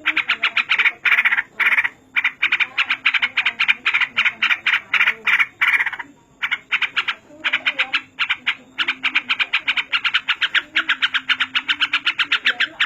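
Caged yellow-vented bulbul singing in long runs of rapid, sharply repeated chattering notes, several a second, with short breaks about two and six seconds in.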